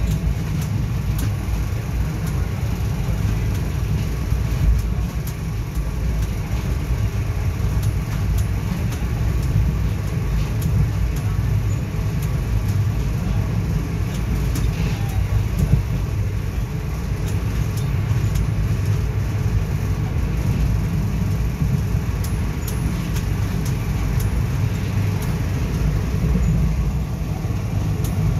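Steady low rumble of an Indian Railways express train running at speed, heard from inside the passenger coach.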